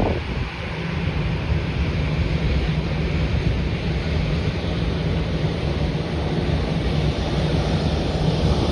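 Jet airliner engine noise, a steady rumbling roar that slowly grows louder, mixed with wind buffeting the microphone.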